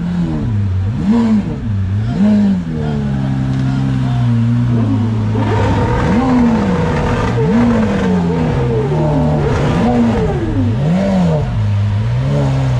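A car engine revved in repeated short blips, its pitch rising and falling about once a second, with a steady hold at higher revs midway, then settling back to idle near the end.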